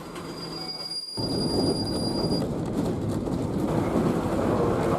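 Train running on rails: a steady high-pitched wheel squeal over the first couple of seconds, then a louder, steady rumble of the wheels and cars from about a second in.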